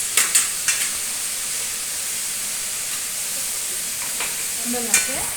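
Food sizzling steadily as it fries in a cooking pan, with a few sharp clinks of a stirring utensil against the pan near the start and another near the end.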